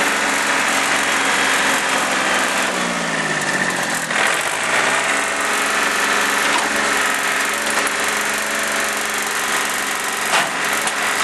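John Deere 790 compact tractor's three-cylinder diesel engine running. Its engine speed dips and comes back up about four seconds in, and a few short knocks come near the end.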